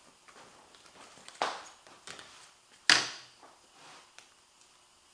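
Two short scraping knocks of objects being handled, about a second and a half apart, the second louder, with a few faint ticks between.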